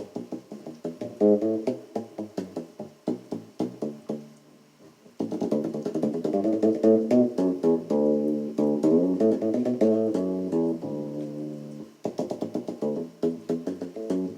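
Electric bass guitar played with dead-note muting, a fret wrap and the forearm over the bridge deadening the strings: short, percussive plucked notes that stop almost at once. About five seconds in it moves to longer, fuller sustained notes, then back to short clipped notes near the end.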